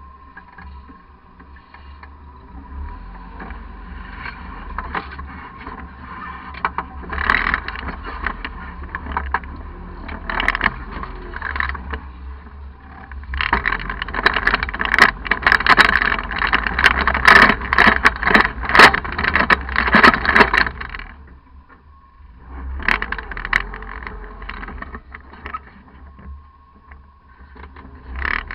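Off-road crawler's engine running low and steady, with bursts of rushing, scraping and clicking noise as it works through a rocky river crossing; the noise is loudest a little before the middle through about three-quarters of the way in.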